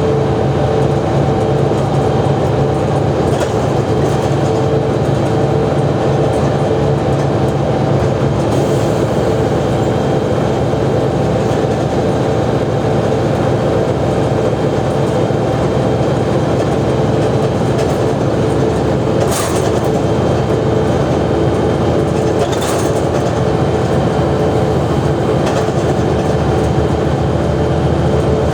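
Mercedes-Benz O345G articulated diesel bus running under way, a steady engine drone with a few brief high-pitched squeaks or rattles in the second half.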